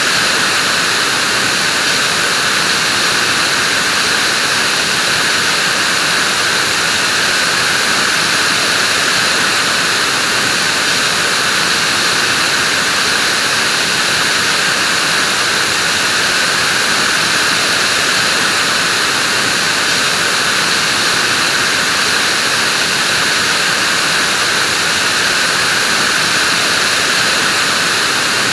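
Vacuum cleaner running at a constant speed, a steady airy hiss of motor and rushing air with no change in pitch or level.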